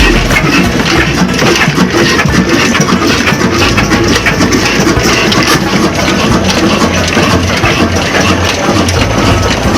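Large old desi diesel engine running steadily.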